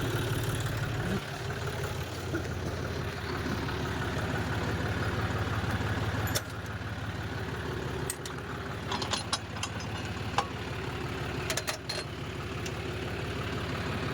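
Tractor engine idling steadily, with several sharp clicks and knocks in the second half.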